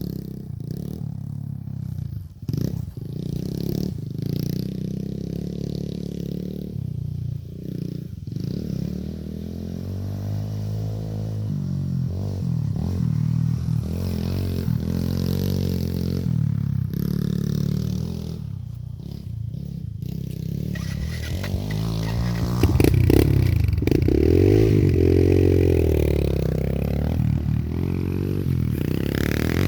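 Dirt bike engine running, its pitch rising and falling as the revs change. It gets louder about three-quarters of the way through, with several quick revs up and down.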